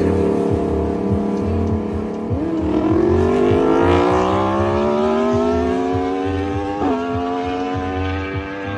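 Inline-four sportbike engine accelerating hard, its pitch rising steadily for several seconds, with a short sharp blip about seven seconds in. A music beat pulses underneath.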